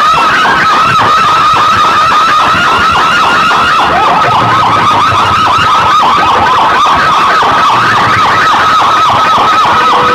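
Very loud electronic siren-like effect from a DJ 'power music' competition track, a warbling tone repeating about four or five times a second, each pulse dropping sharply in pitch, with a low bass swell underneath now and then.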